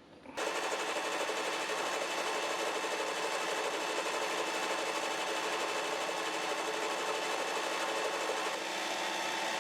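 A small machine running steadily at an even speed, starting abruptly about half a second in.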